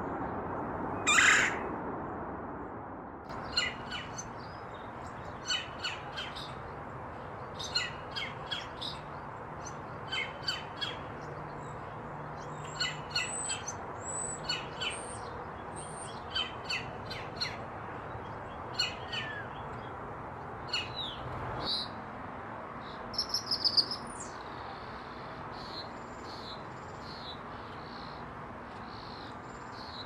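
Red-bellied woodpecker giving a loud rolling call about a second in. Short chattering call notes follow every second or two, then thin, high whistling notes in the second half.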